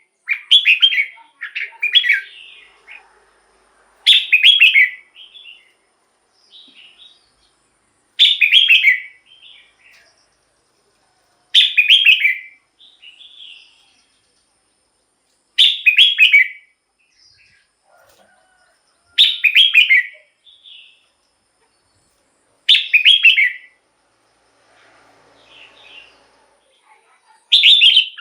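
Red-whiskered bulbul singing: loud, short, bubbling song phrases repeated about every three and a half seconds, with quieter notes between them.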